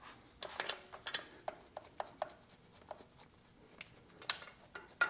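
Irregular light clicks and taps of small metal fuel-fitting parts being handled and cleaned of dirt, about a dozen sharp ticks with a louder pair near the end.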